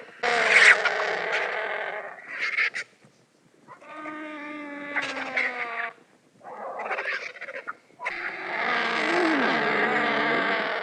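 Vulture calling: a series of about five harsh, raspy calls with gaps between them, the longest at the start and near the end.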